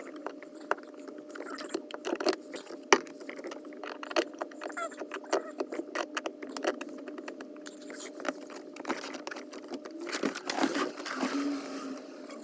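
Irregular sharp clicks and light metallic rattles, as of tools and small parts being handled, over a steady hum.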